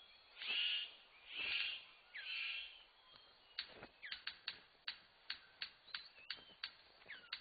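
A male bird calling in courtship display: three loud, harsh rasping calls in the first few seconds, then a quick run of sharp clicks broken by short whistled notes.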